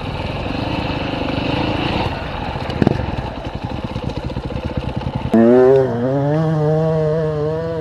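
Motorcycle engine running rough and low, then revved hard about five seconds in and held at high revs, its pitch wavering up and down.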